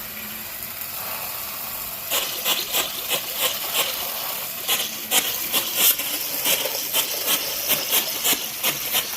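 Water spray from a garden-hose sprayer hitting the side of a house as cleaning solution is sprayed on: a steady hiss, with irregular louder splashes about twice a second from about two seconds in.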